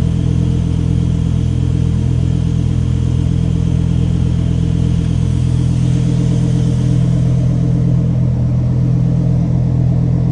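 Lamborghini Huracán Evo's naturally aspirated 5.2-litre V10 idling steadily after a cold start.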